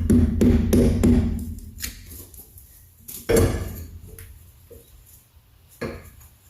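Metal knocks and clanks from work on the truck's rear suspension: a quick run of knocks in the first second or so, then one loud bang about three seconds in that rings down, and a smaller knock near the end.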